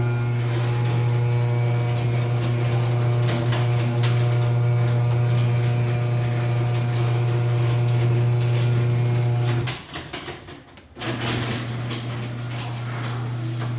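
Electric garage door opener motor humming steadily as a door travels, with occasional clicks from the door's nylon rollers, which are starting to wear and click. The hum stops about ten seconds in, and an opener starts humming again about a second later.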